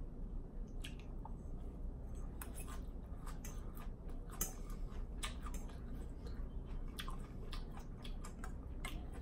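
Close-miked chewing of a Greek salad, with wet mouth smacks and many short sharp clicks throughout, as a fork picks at the salad in the bowl.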